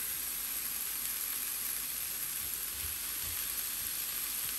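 Shrimp and chopped onion sizzling in hot olive oil in a frying pan, a steady hiss.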